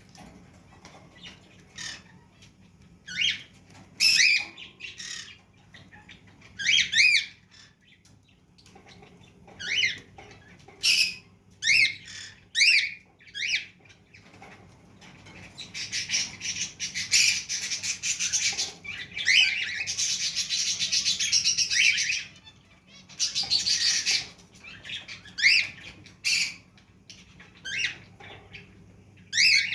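Pet cage birds calling: short, sharp chirps and squawks repeated at irregular intervals, with a dense stretch of continuous chattering lasting several seconds about halfway through.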